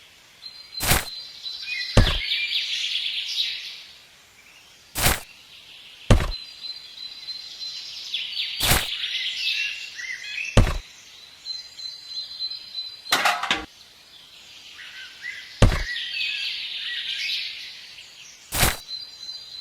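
A series of sharp knocks, about nine of them, one every one to two and a half seconds, with birds chirping in clusters in the background.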